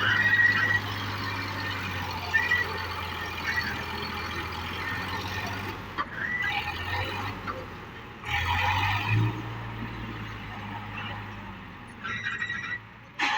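Tractor diesel engine running steadily, with short high chirps and a few brief bursts of noise over it.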